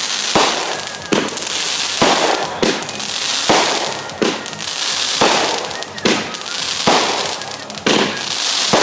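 Consumer aerial fireworks going off in quick succession: a sharp bang roughly every second, each trailed by a high hiss.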